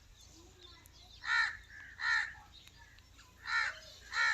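A bird calling: four short calls, coming in two pairs.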